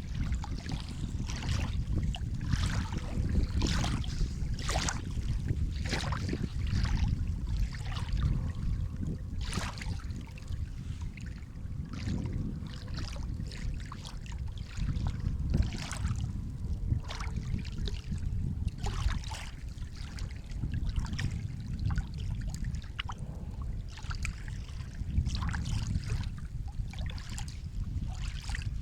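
Sea water lapping and splashing in a quick irregular series of small splashes over a steady low rumble of surf.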